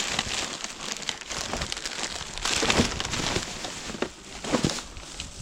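Plastic bin bags rustling and crinkling as rubbish is handled and rummaged through, a dense run of crackles and small clicks, loudest a little past halfway.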